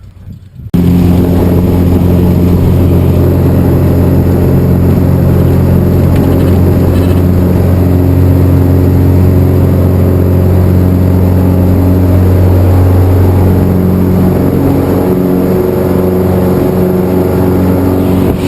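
Skydiving jump plane's piston engine and propeller droning steadily, loud and unchanging in pitch, cutting in abruptly about a second in.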